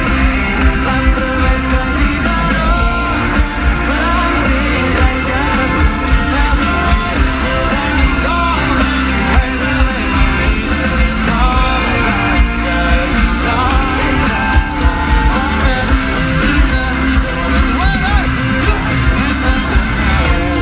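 Live rock band playing a song with a lead vocal over guitars and a heavy, loud bass-and-drum mix.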